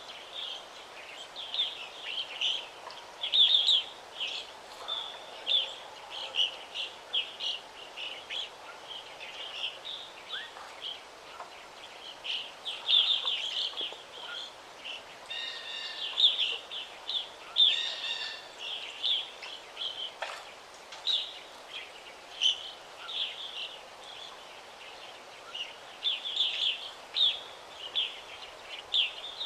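Several small birds singing and chirping in a forest, with many quick high chirps in overlapping phrases over a faint steady background hiss.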